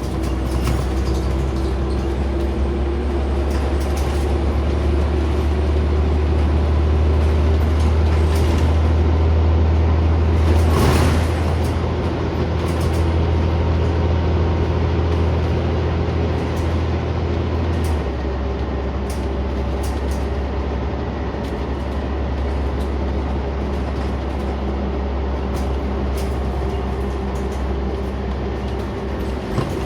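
Scania CN94UB Omnicity single-deck bus heard from inside, its diesel engine and drivetrain running with a strong steady low drone while under way. A brief hiss comes about 11 seconds in, and the drone eases off to a lower level about 18 seconds in.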